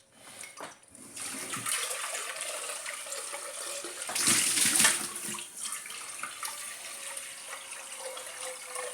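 Kitchen tap running water into a pot, filling it; the flow is steady, growing louder for a moment about four seconds in.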